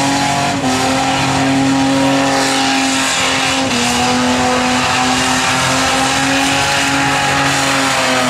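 Ford AU Falcon ute's inline-six engine held at steady high revs in a burnout, the rear tyres spinning and screeching on the pad. The engine note dips briefly about half a second in and again near four seconds.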